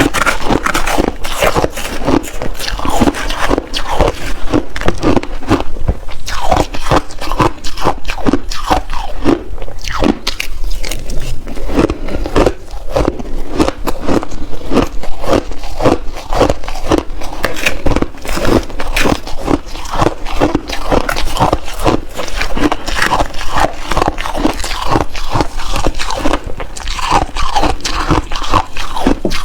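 Close-up crunching of shaved ice being bitten and chewed in big mouthfuls: a dense run of crunches, several a second, without pause, with some scraping.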